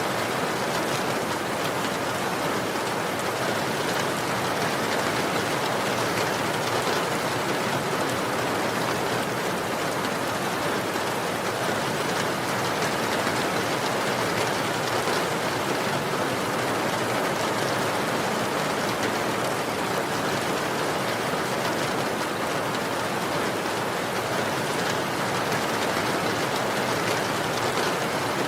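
Steady rainfall: an even hiss of rain falling on surfaces, with no thunder or other sounds.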